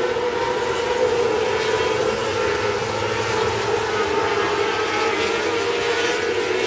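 Winged sprint car engine running at a nearly steady high pitch.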